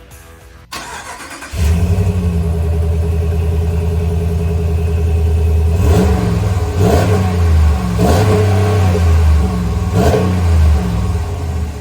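Dodge Ram Rebel pickup's engine, breathing through a newly fitted Borla S-Type cat-back exhaust, starting up. It catches about a second and a half in and settles into a loud, deep idle, then is revved four times in short blips before dropping back toward idle near the end.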